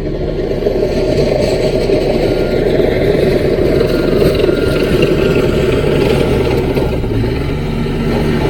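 CAT mini bulldozer's diesel engine running steadily while working, getting a little louder about a second in.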